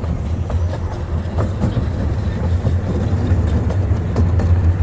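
Small-gauge ride-on railway train running along the track, wheels clicking over rail joints above a steady low rumble.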